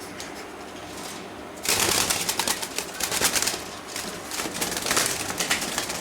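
Caged pet birds: a sudden loud rustling, fluttering noise starts nearly two seconds in and carries on in uneven pulses, with faint clicks before it.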